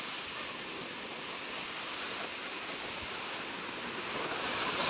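Mediterranean surf washing onto the beach: a steady rush of waves that swells a little near the end.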